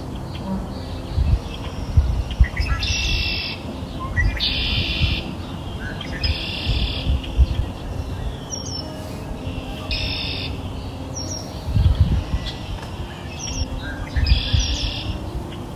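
Small bird calling: five short, high trilled chirps of about half a second each, spaced a few seconds apart, over a low steady rumble.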